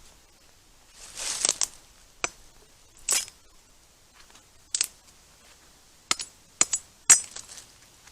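A brief rustle, then a series of sharp clicks and clinks at irregular intervals, like small hard objects knocking together, the loudest near the end.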